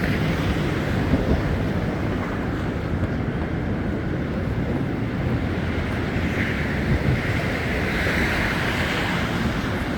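Wind buffeting a phone's microphone: a steady, dense roar heavy in the low end, with no distinct events.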